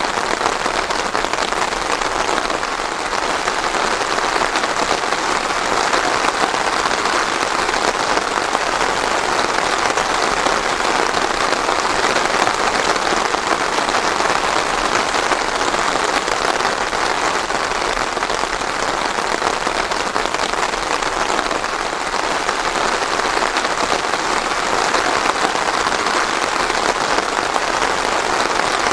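Steady rain falling without thunder: a continuous, even patter of drops.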